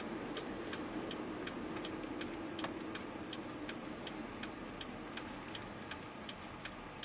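Faint regular ticking, about three ticks a second, over a low hum that slowly fades and then cuts off abruptly.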